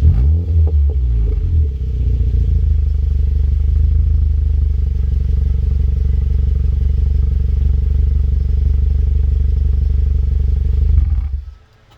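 2010 Honda Fit's four-cylinder engine heard through an aftermarket Yonaka exhaust: a few quick revs in the first second or so, then a steady idle, and the engine is shut off near the end.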